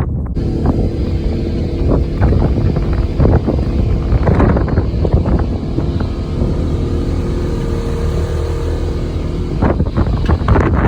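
Polaris off-road vehicle engine running steadily while driving, with wind buffeting the microphone and frequent knocks and rattles.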